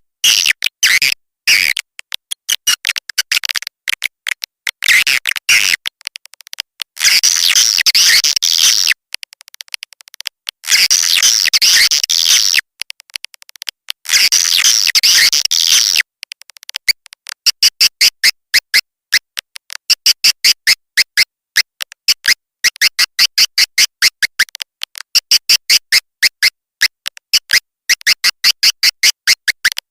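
Swiftlet lure-call recording: rapid, high twittering chirps and clicks in thick spells. About halfway through it settles into a regular string of short chirp bursts, roughly two a second.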